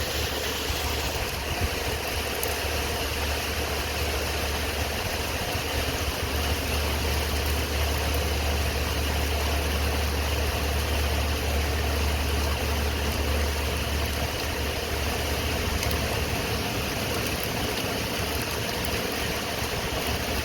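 Car running, heard as a steady low engine and road rumble with an even hiss over it. The rumble swells slightly in the middle.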